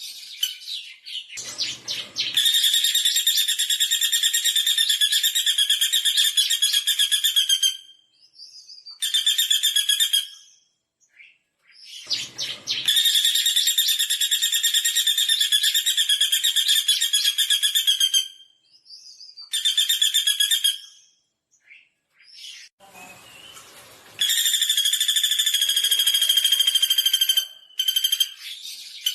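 Pelatuk bawang (common flameback woodpecker) giving loud, rapid rattling trill calls: three long rattles of several seconds each, with shorter rattles in between and pauses between calls.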